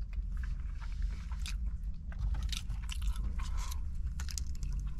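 Close-up chewing of a crispy fried chicken sandwich (a Chick-fil-A spicy deluxe): crunching of the breading and wet mouth clicks, coming irregularly over a steady low hum.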